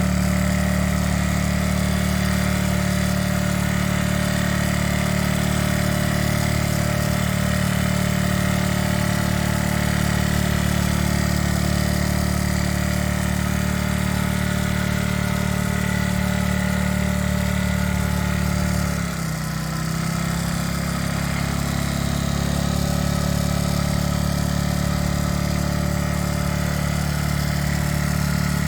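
Motorcycle engine idling steadily. About two-thirds of the way through, its speed dips briefly, then picks back up.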